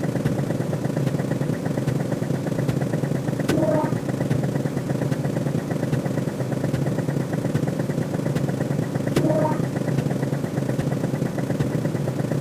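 Looping electronic sound effect: a steady, dense synthetic drone with fast even ticking and a short pitched chirp that comes back about every six seconds.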